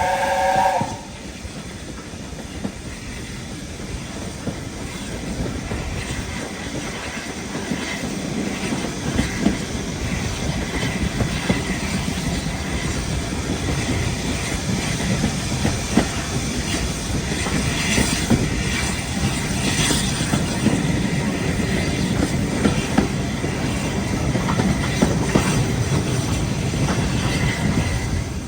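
The last of a steam locomotive's multi-note chime whistle, then A1 Pacific 60163 Tornado's train running past: a steady rumble of wheels on rail with scattered clicks over the joints, slowly growing louder.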